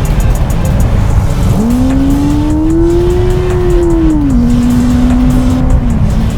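Benelli 600i inline-four engine under way with heavy wind rumble. The engine note climbs as the throttle opens, eases back, then holds a steady cruising pitch and dips slightly near the end.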